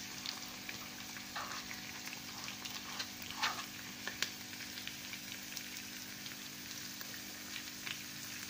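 Grated almonds, pistachios and cashews frying in hot ghee in a frying pan: a steady fine sizzle with small crackles, and a couple of brief louder crackles in the first few seconds as the nuts go in.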